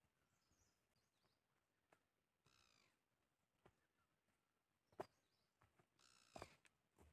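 Faint forest ambience: a bird gives two harsh, falling calls about three and a half seconds apart, over small high chirps. A few faint sharp clicks, the loudest about halfway through.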